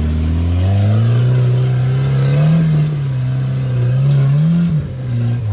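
Off-road rock crawler's engine revving. Its pitch climbs about half a second in, holds with small rises and dips, then drops off near the end.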